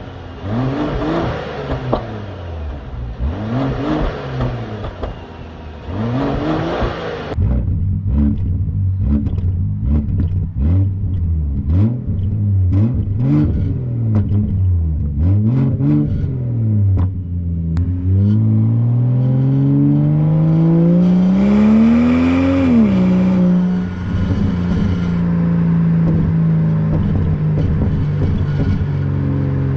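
Volvo T6 turbocharged 3.0-litre inline-six revved in place, heard in two takes: first three rev blips, then about seven more quick blips. Near the end it is held in one long rising rev for several seconds, then drops sharply to a steady idle.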